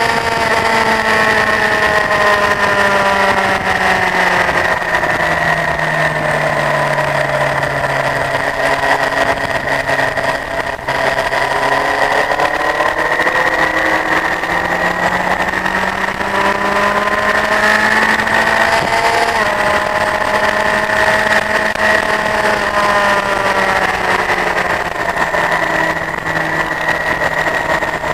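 Honda CBF1000's inline-four engine running on track, heard from on the bike: the engine note slowly falls, climbs and falls again as the rider eases off and opens the throttle, with one sudden drop in pitch about two-thirds of the way through at a gear change. A steady hiss runs under it.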